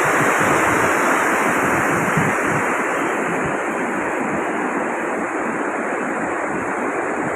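Fast-flowing water rushing steadily, a little softer after about three seconds.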